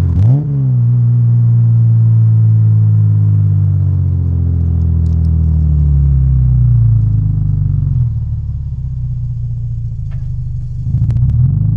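Lexus SC300's inline-six running through a Blitz Nur Spec-R aftermarket exhaust while driving. About half a second in the revs drop and climb back quickly, as at a gear change. The note then falls slowly as the revs come down, settles into a lower drone, and rises and falls briefly near the end.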